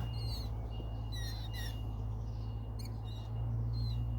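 Two tiny nine-day-old chicks peeping: short, high, downward-sliding chirps in small clusters, over a low steady hum.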